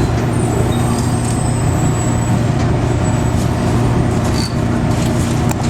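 Automated airport people-mover tram running, heard from inside the car: a steady low hum with an even rumble of motors and wheels.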